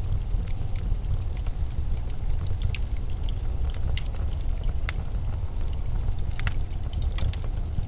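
Winter storm wind blowing steadily and deep, with scattered small sharp crackles and ticks over it.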